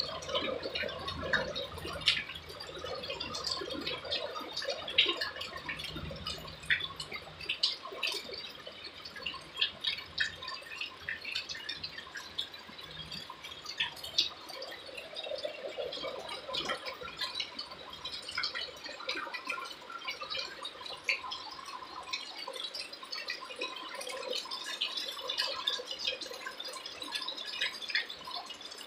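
Rain falling, with many separate drops dripping and pattering close by. A low rumble underneath fades out over the first several seconds.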